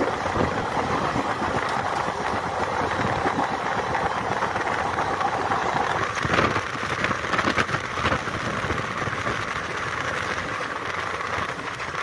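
ICF passenger coach running on the track: a steady rumble and rattle of wheels on rails, with a run of sharp clacks and clatter about six seconds in.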